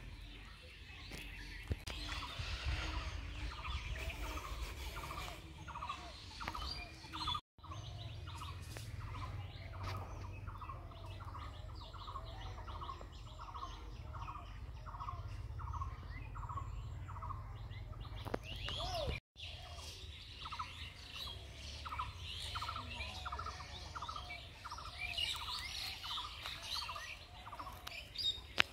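Birds chirping and calling, one of them repeating a short note evenly a few times a second, over a low rumble. The sound cuts out for an instant twice.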